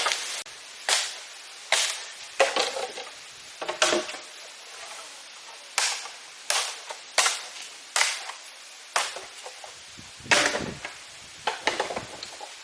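A series of about a dozen sharp chopping or cracking strikes at an irregular pace of roughly one a second, each dying away quickly.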